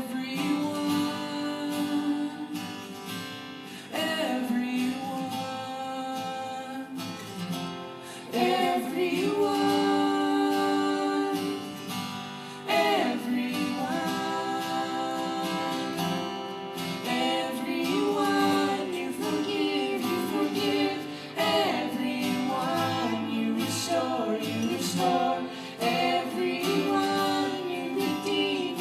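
Two children singing a worship song together, with acoustic guitar accompaniment.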